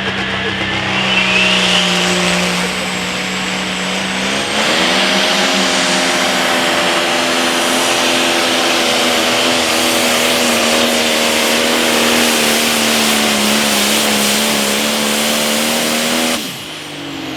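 Turbocharged diesel engine of an International 5488 limited pro stock pulling tractor under full throttle during a pull. Its pitch steps up about four seconds in, holds steady, and then drops off sharply near the end as the pass finishes.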